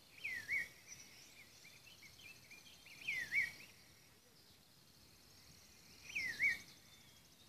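A bird calling three times, about three seconds apart, each call a short whistle that swoops down and then flicks up, with softer chirps between. Insects trill steadily in the background.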